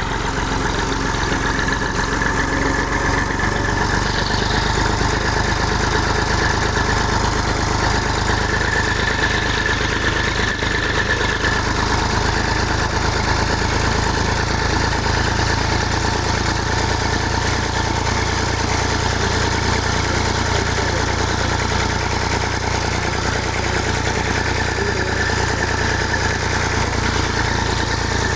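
Tractor engine running steadily, an unbroken low rumble with a steady drone.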